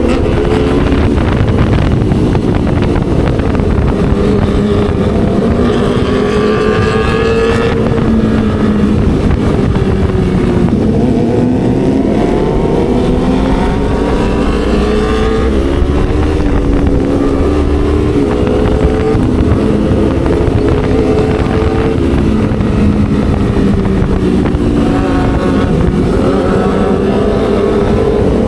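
Motorcycle with an aftermarket racing exhaust being ridden, the engine note rising and falling again and again as it accelerates and shifts gears, with wind rushing over the microphone.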